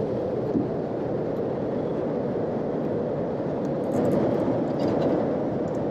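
Jet boat running: a steady rushing noise.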